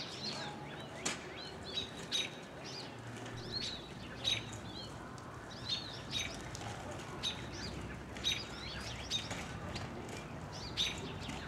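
Small birds chirping: short high chirps repeated irregularly, roughly one or two a second, over a faint steady low hum.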